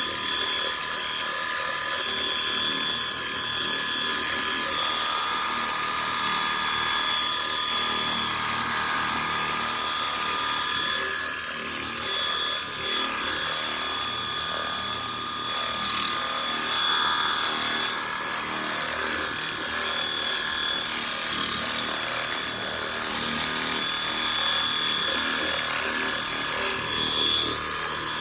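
Stihl RCA 20 battery-powered pressure washer running, its motor and pump giving a steady high-pitched whine over a hiss of spraying water.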